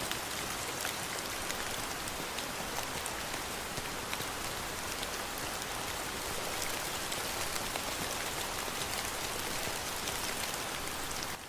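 Steady rain falling: an even hiss of drops that stops shortly before the end.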